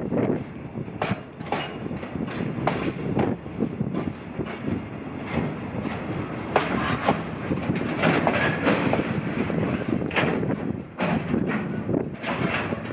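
Freight train wagons behind an EF210 electric locomotive rolling past, wheels clattering over rail joints in a run of irregular knocks over a steady rumble.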